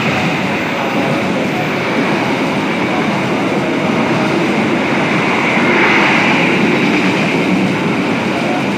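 Diesel-hauled passenger train passing close at speed: a loud, steady rush and rumble of steel wheels on rail as the coaches go by, swelling slightly about six seconds in.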